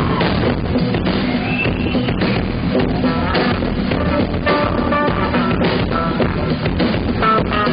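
Live blues-rock music: electric guitar over a drum kit keeping a steady beat, loud and dense.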